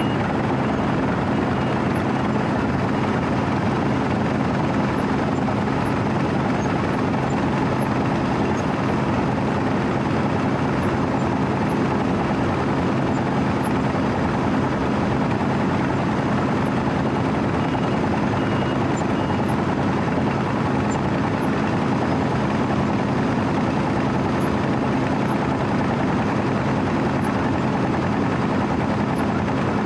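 Diesel engine of a Wirtgen W 120 CFi cold milling machine running steadily, an even low drone with no change in pitch.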